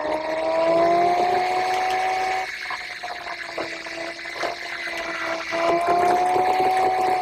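Car engine pulling uphill under load, with a steady whine that rises in pitch, sags a little about two and a half seconds in, then climbs again.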